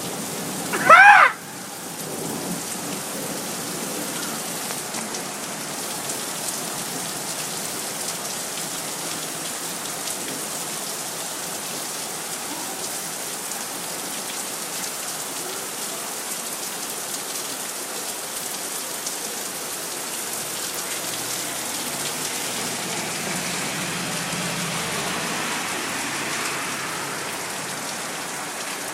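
Steady rain falling, an even hiss of drops striking surfaces. About a second in, a short, loud voice-like call cuts through, and a low rumble swells softly about three-quarters of the way through.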